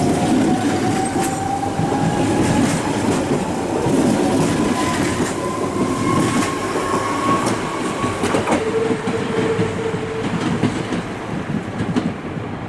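Nose Electric Railway 1700 series electric train pulling away from the station, its motor whine rising steadily in pitch over wheel clatter on the rail joints. About two-thirds of the way through, the whine drops to a lower steady tone.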